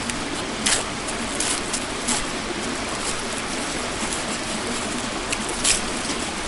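Steady rushing of a flowing mountain stream, with a few short sharp snaps standing out over it.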